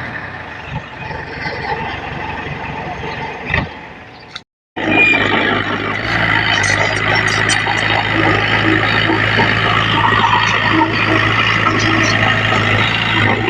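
Heavy diesel engines of earth-moving machinery running steadily, with a brief dropout about four and a half seconds in, after which they are louder.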